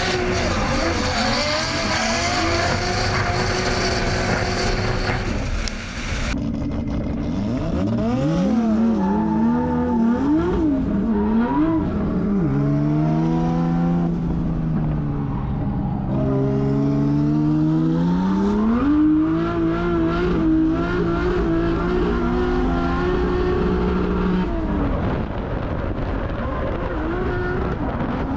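Drift car's 1.5JZ straight-six revving hard under drifting, its pitch climbing and falling again and again with the throttle, over tyre squeal. From about six seconds in the sound turns duller and the engine's rise and fall is heard more plainly.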